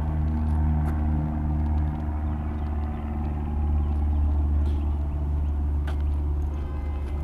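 Suzuki SV1000S's 90-degree V-twin engine running at steady, low revs, with a couple of faint clicks.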